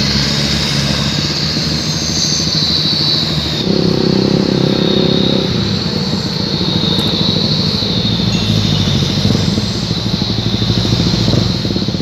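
Truck engine running under throttle through a loud Sulawesi-style 'chung takalar' exhaust, with a steady high whine over it. It swells louder about three and a half seconds in for a couple of seconds as the throttle opens, then settles back.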